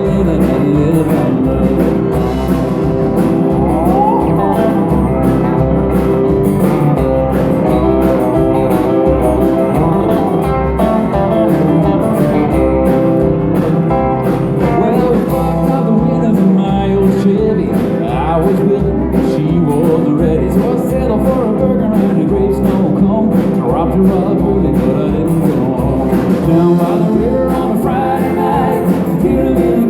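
Live band playing country-rock dance music with a steady beat and guitar.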